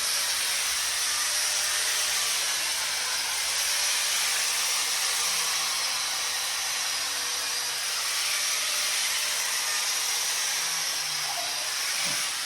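Air hissing steadily out of a tire as it is being deflated.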